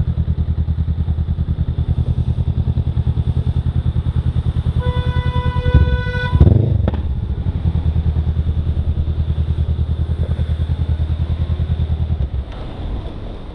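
Honda CMX500 Rebel's parallel-twin engine idling with a steady low pulse. About five seconds in, a vehicle horn sounds for about a second and a half. A brief loud burst follows, and near the end the idle cuts out.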